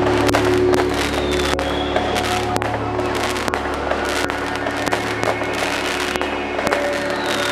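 Fireworks bursting and crackling in a rapid, irregular string of bangs, over background music.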